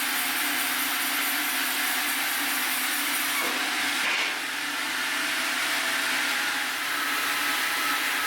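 Sawmill saw running steadily as it cuts through a shirakashi (Japanese white oak) log, a continuous hissing cutting noise.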